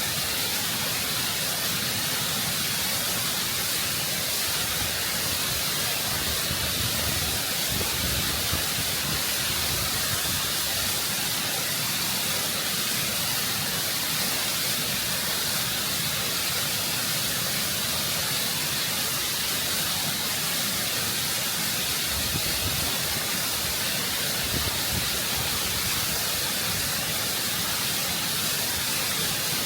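Waterfall rushing over rock, close up: a constant, full roar of falling water with no breaks.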